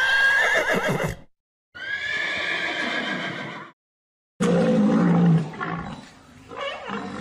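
Horses whinnying: two high neighs with a shaking pitch, one right at the start and one held for about two seconds. About halfway through, a lower, rougher animal call follows.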